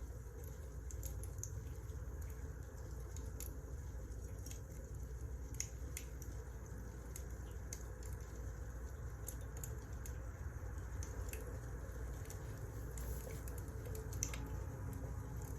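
Wood fire burning in a fireplace: irregular sharp crackles and small pops over a steady low rumble of the flames.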